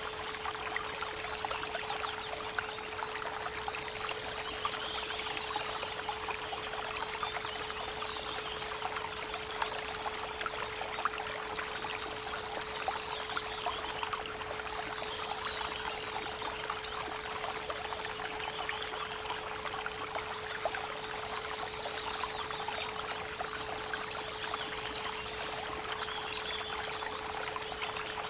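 A steady 432 Hz pure tone held over the constant rush of a flowing creek, with small birds singing high chirps now and then.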